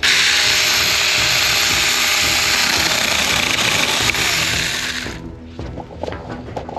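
Saker cordless electric mini chainsaw running and cutting wood: a loud, rough buzz that starts abruptly and cuts off about five seconds in.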